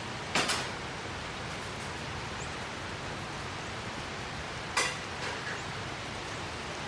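Steady rain hiss, with two short sharp taps standing out, one just after the start and one about five seconds in.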